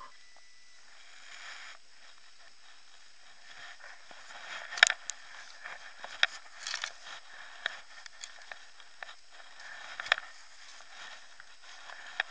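Rustling, crackling and sharp clicks of handling close to the microphone, loudest about five seconds in and again near ten seconds, over a steady hiss of heavy rain.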